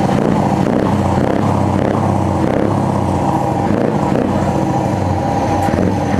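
Heavy truck diesel engine with an open, unsilenced exhaust, running loud and fairly steady.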